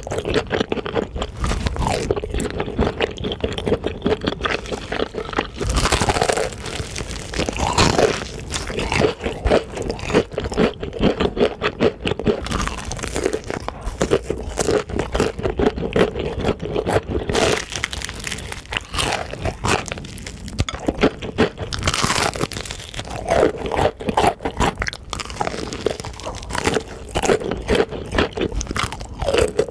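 Close-miked crunching and chewing of crispy fried chicken: rapid crackling of the crunchy coating between the teeth, with several louder bites along the way.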